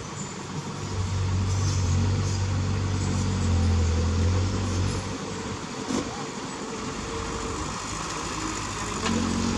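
Heavy diesel engine of earthmoving machinery working under load, with a deep drone that swells about a second in, holds for a few seconds, then eases to a lower steady run. There is a single knock about halfway through.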